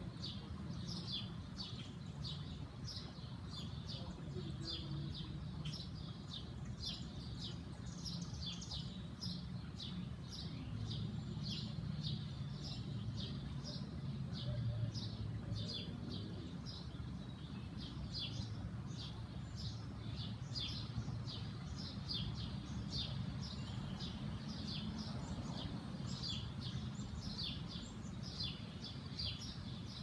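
Birds chirping steadily in short, repeated high notes, about two a second, over a low steady rumble of background noise.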